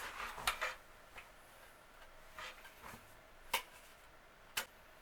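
A few faint, sharp clicks or knocks, irregularly spaced, over quiet room tone.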